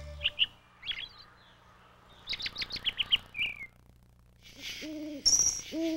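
Small birds chirping, with a quick run of high notes ending in a falling slur, then an owl hooting twice near the end.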